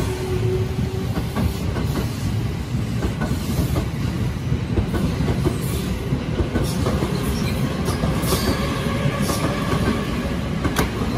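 Electric commuter train in Yokosuka Line blue-and-cream livery running past along the platform with a steady rumble, its wheels clicking over rail joints. A few brief high wheel squeaks come in the second half.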